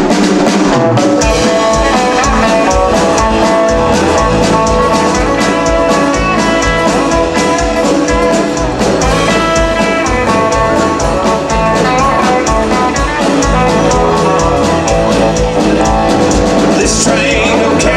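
Live band music with a steady beat; voices come in singing near the end.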